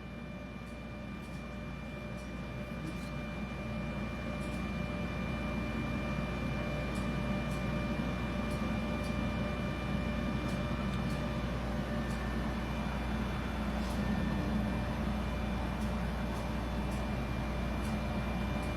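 Steady drone of ship's engine-room machinery, a low hum with several fixed whining tones, building up over the first few seconds and then holding steady, with faint scattered ticks.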